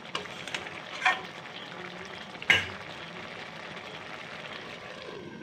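Crab curry with onions frying and sizzling steadily in a metal kadai, its gravy cooked down. A metal spatula knocks against the pan a few times, most sharply about two and a half seconds in.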